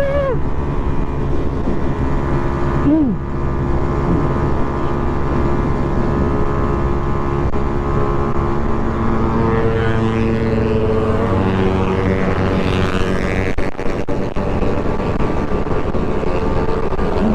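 Motorcycle engine running at speed, heard from the bike itself, its pitch briefly rising and falling at the start and again about three seconds in, over a constant low rumble of wind and road noise.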